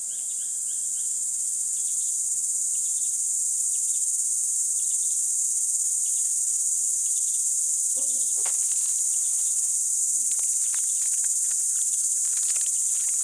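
Steady high-pitched chorus of forest insects, with a few faint chirps and clicks scattered through it.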